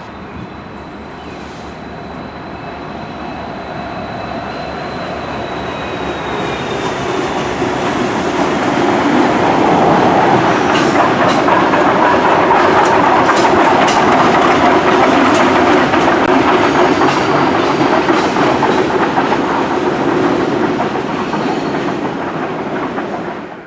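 A Norfolk Southern train led by an SD60E diesel locomotive crosses a railroad bridge, its wheels clattering over the rail joints. It grows louder as it approaches, with sharp clicks as the cars pass, then cuts off suddenly near the end.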